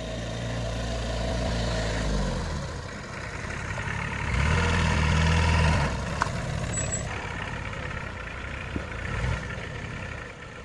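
A motor vehicle's engine running at low revs, louder in the first two seconds, easing off, then building again about four seconds in, with a single sharp click near the six-second mark.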